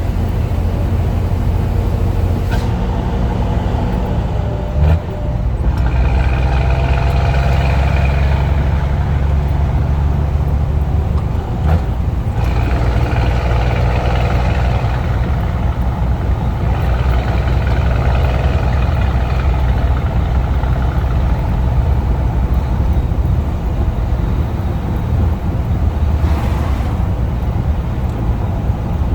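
Scania truck's diesel engine with a straight-pipe exhaust running under load, a deep steady drone. The sound drops briefly about five seconds in and again about twelve seconds in, then pulls on strongly with a fuller, higher note.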